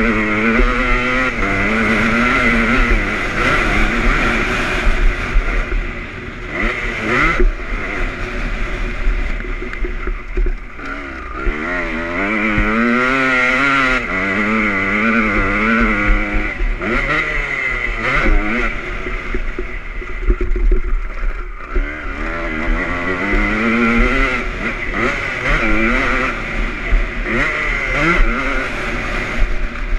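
Honda CR250 single-cylinder two-stroke motocross engine, pitch climbing and dropping again and again as the throttle is opened and shut around the track.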